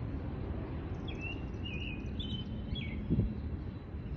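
Small birds chirping in short repeated calls over a steady low rumble of outdoor background noise, with one brief thump a little after three seconds.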